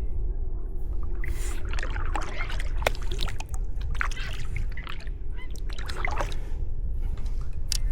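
Sea kayak paddling: splashes of the paddle blades entering the water and water trickling off them, in an irregular series, over a steady low rumble.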